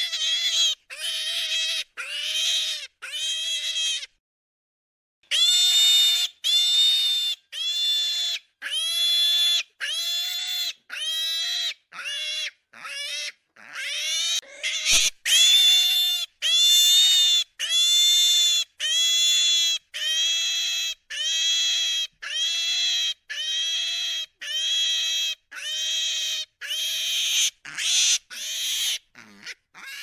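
Piglets squealing: a long run of short, high, even squeals, a little over one a second, each dipping slightly at its end, with a brief pause about four seconds in.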